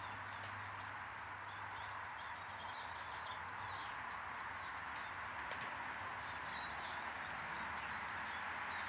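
Small songbirds chirping and twittering, with short sharp clicks among the calls, over a steady background hiss. The calls grow busier from about halfway through.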